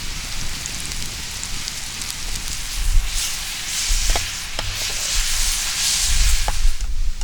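Beef tongue sizzling as it cooks over a fire, a steady hiss with scattered crackles that swells twice and drops away just before the end.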